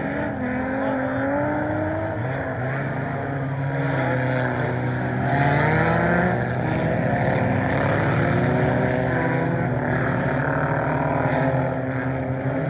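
A field of scramble race cars running at racing speed just after the green flag, several engines at once, their pitches rising and falling. The sound swells about five seconds in.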